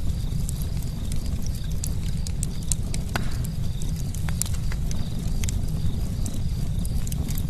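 Campfire crackling: irregular sharp pops and snaps over a steady low rumble, with one louder crack about three seconds in.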